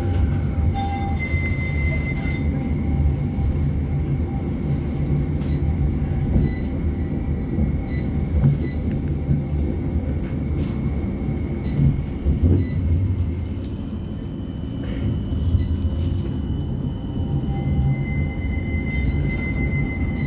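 West Midlands Metro tram, a CAF Urbos 3, running between stops. A steady low rumble is heard, with a thin high whine that fades around the middle and comes back near the end.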